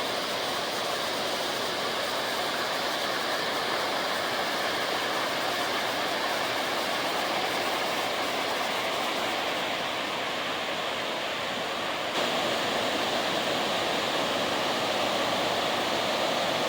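Waterfall: a steady rush of falling water that gets a little louder about twelve seconds in.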